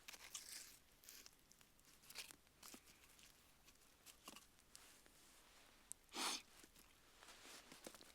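Campfire burning with faint, scattered crackles and snaps of wood, with one louder, slightly longer crackle about six seconds in.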